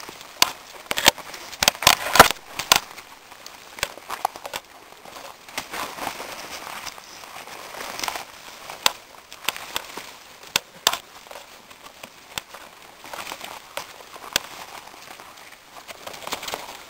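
Dry leaves and twigs crackling and snapping underfoot as someone pushes through forest undergrowth, in irregular sharp snaps that come thickest in the first few seconds.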